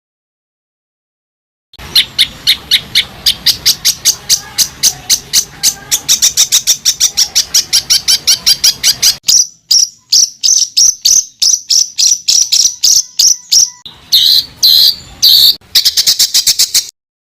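A songbird sings tight, rapid-fire runs of sharp, high repeated notes of the 'tembakan rapat' kind used to tutor competition birds, several notes a second. It starts about two seconds in after silence, thins out midway, and ends with a few louder spaced notes before cutting off.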